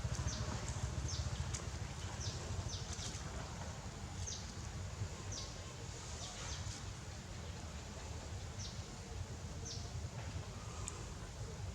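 Short, high-pitched animal chirps, about a dozen scattered irregularly, each falling quickly in pitch, over a low steady rumble.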